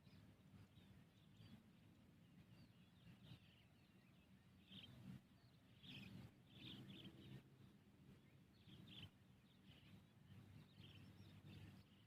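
Faint bird chirps, short and scattered, over a low steady background hum.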